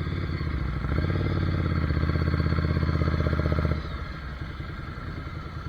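Ducati Monster 797's air-cooled L-twin engine pulling under throttle with a steady pulsing beat, growing slightly louder. About four seconds in it drops off sharply as the throttle is closed and runs on quieter, slowing down.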